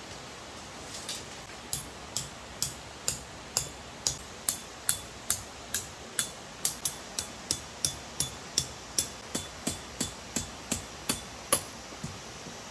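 A hammer striking a metal tent peg over and over, about two or three blows a second, each with a short metallic ring. The blows start about a second in, and the last one is the loudest.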